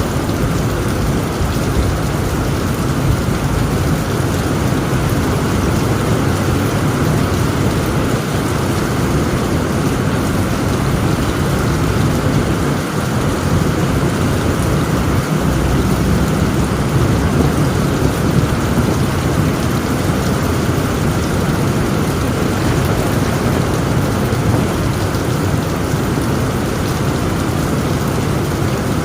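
Heavy rain falling steadily on a tent roof, with a continuous low rumble of storm and wind underneath.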